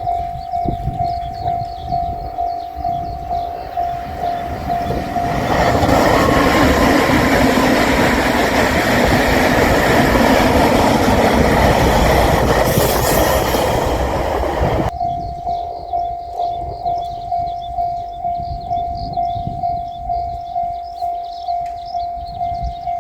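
Level-crossing warning bell ringing steadily at about two strokes a second. About five seconds in, a JR Shikoku 8000 series limited express electric train passes through the crossing for about ten seconds, loud enough to drown the bell, which then rings on alone.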